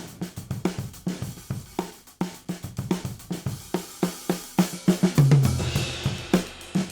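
Recorded drum kit groove (kick, snare and hi-hat in a quick steady pattern) played back through a stock dbx 119 compressor/expander, with a low drum hit and a cymbal crash about five and a half seconds in.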